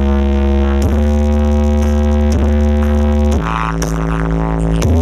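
Loud synthesizer music with heavy sustained bass played through a large 'horeg' sound-system rig during a sound check. Held chords change about once a second, with a thinner, brighter passage over lighter bass near the end.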